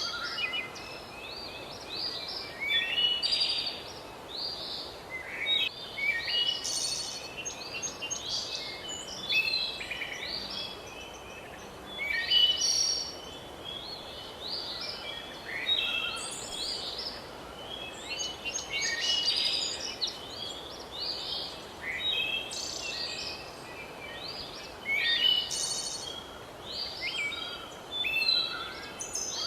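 Several birds singing and calling, short chirping phrases every second or two, over a steady background hiss.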